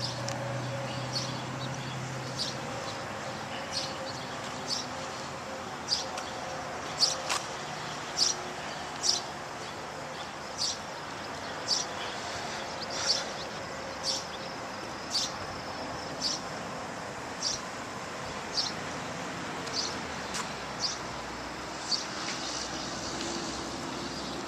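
A small bird chirping over and over, one short high chirp about every second, over the steady hum of distant road traffic.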